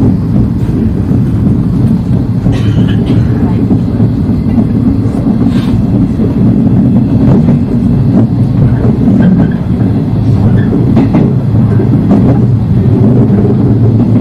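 Electric commuter train running, heard from inside the leading car: a steady low rumble of wheels and running gear, with a few sharp clacks at irregular moments as the wheels cross rail joints and points.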